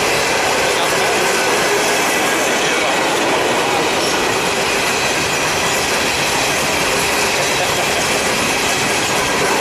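Norfolk Southern freight train rolling past at steady speed: a dense, even clatter of steel wheels on rail, with a faint high squeal from the wheels.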